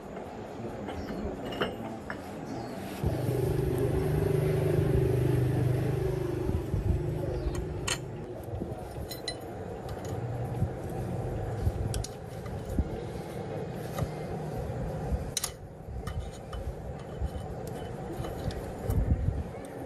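Tractor engine running steadily, rising in level about three seconds in and easing off after several seconds, with scattered metallic clinks and knocks.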